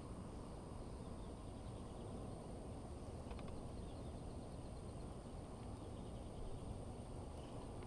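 Steady low outdoor background noise with a thin, steady high whine, and faint bird chirps scattered through it, with a quick run of chirps about three seconds in.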